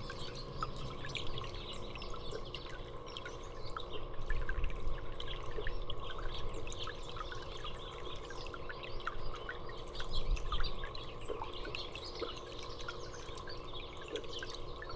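Small songbirds chirping over a steady patter of dripping and trickling water. A low rumble comes twice, about four and ten seconds in.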